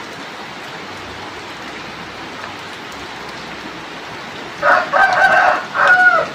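Heavy rain pouring steadily. Near the end a rooster crows once, a call of about a second and a half that drops in pitch as it ends and is louder than the rain.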